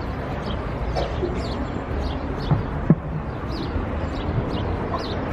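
Small birds chirping in quick short calls, several a second, over a steady background hiss, with one sharp knock about three seconds in.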